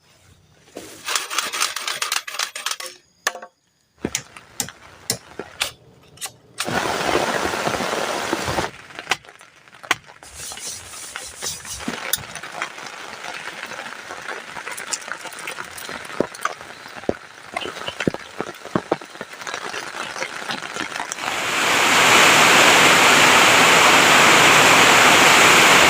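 A string of short, abruptly cut sounds full of sharp clicks and ticks, giving way about 21 seconds in to a loud, steady hiss of heavy rain.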